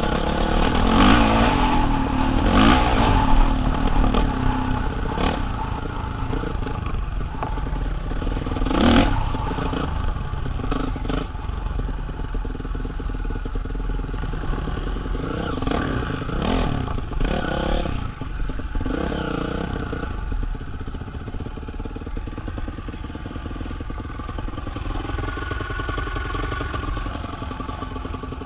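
A vehicle engine running, its revs rising and falling, with clattering knocks about a second in, around three seconds and about nine seconds in.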